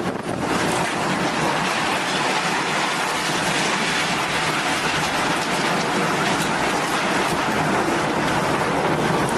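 Loud, steady rushing of water, like heavy rain or a torrent.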